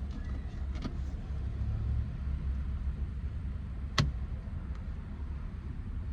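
A steady low rumble, with a light click about a second in and one sharp, loud click about four seconds in, as car interior trim parts are handled.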